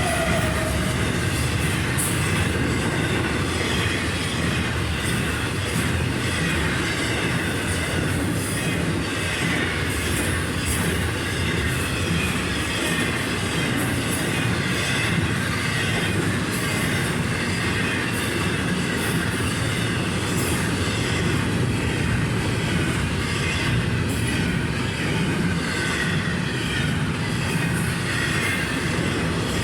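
Florida East Coast Railway freight train rolling past: a steady rumble of steel wheels on rail, with faint, wavering wheel squeal over it.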